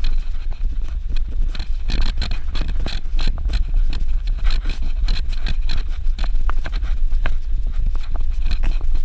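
Suzuki Jimny 4x4 driving over a dirt road: a steady low rumble with irregular knocks and rattles from the tyres and suspension on the rough surface.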